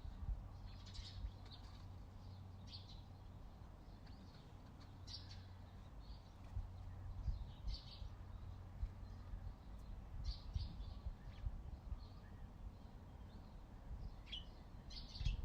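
Small songbirds chirping in short, scattered high calls, one every second or two, over a low background rumble.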